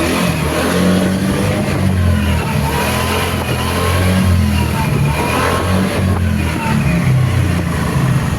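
TVS Ntorq scooter engine running and being revved, its sound swelling and easing every second or two.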